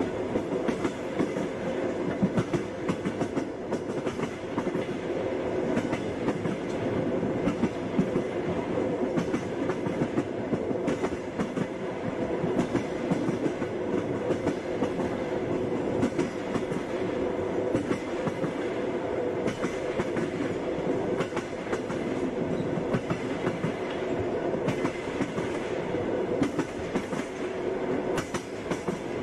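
Passenger train wheels clacking over the rail joints, with many short clicks over a steady rumble of the carriage running along the track.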